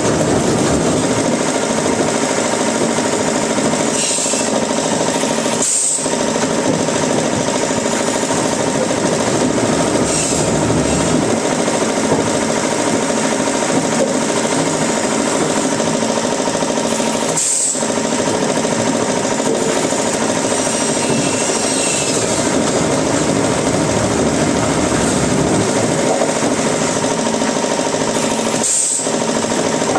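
Sawmill wood-cutting machinery running: a loud, steady mechanical noise that dips briefly three times.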